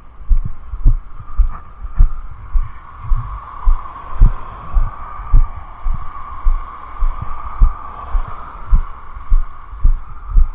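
Dull, muffled thumps about twice a second, under a rushing-water hiss that swells in the middle and eases off near the end.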